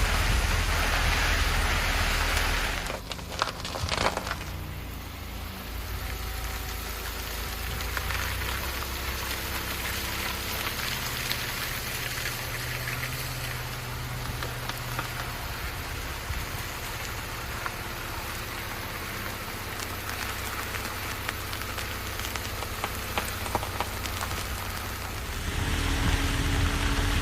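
Car driving on a dirt road: tyres crackling over loose dirt and gravel, with the engine running low underneath. Louder at the start and again near the end, with a few sharp knocks about three to four seconds in.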